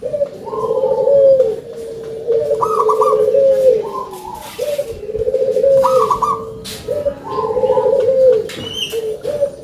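Zebra dove (perkutut) cooing: its rolling, warbled phrase repeated about every two seconds.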